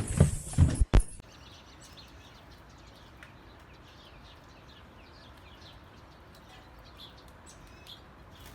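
A sharp knock about a second in, then small birds chirping faintly: many short, quick chirps over a quiet background.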